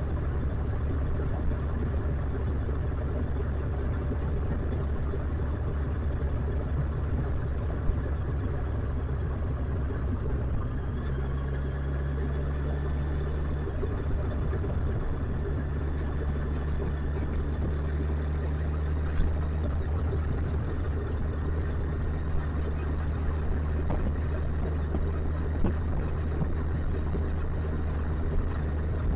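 Motorcycle engine running steadily while riding, under an even rushing noise; the engine note shifts slightly about eleven seconds in.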